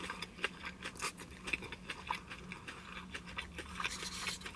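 Close-up chewing of a freshly bitten crispy fried spring roll (chả giò): soft, irregular crunches and wet mouth clicks.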